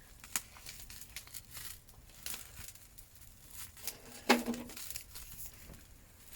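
Scattered irregular crackles and rustles, with one sharper, louder snap about four seconds in.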